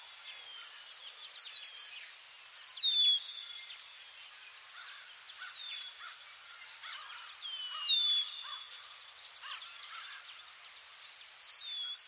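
Countryside ambience: a bird calling with short high whistles that fall in pitch, repeated every second or two, over a steady train of very high chirps at about three to four a second.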